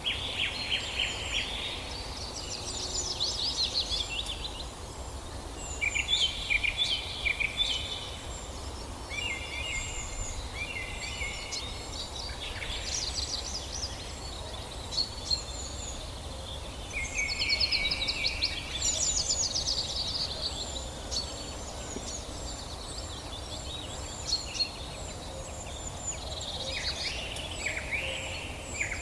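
Several songbirds singing together in a forest chorus: overlapping high chirps, fast trills and short repeated phrases, with a steady low background hum of outdoor ambience.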